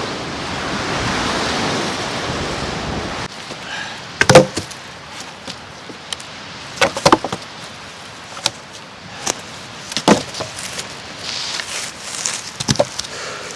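Lake waves washing with wind noise for about three seconds. Then it cuts to a quiet background with scattered sharp knocks and clicks, like wood or camp gear being handled; the loudest comes about four seconds in.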